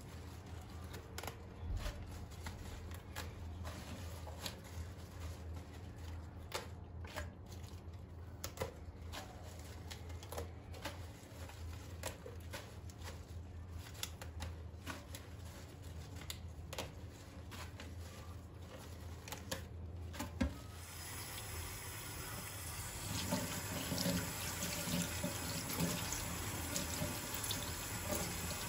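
Light clicks and knocks of kitchen handling, then about two-thirds of the way through a kitchen tap is turned on and water runs steadily into the sink.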